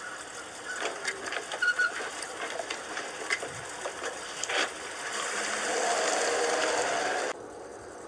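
Vintage car engine clattering as the car drives past, with scattered clicks. The passing noise swells about five seconds in and cuts off abruptly near the end.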